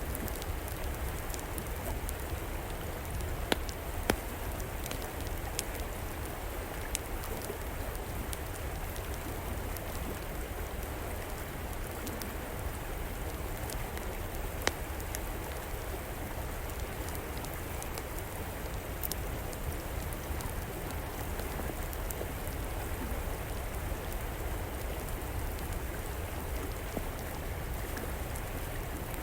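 Steady rushing of flowing river water, with scattered sharp pops and crackles of a wood fire, the loudest a few seconds in and near the middle.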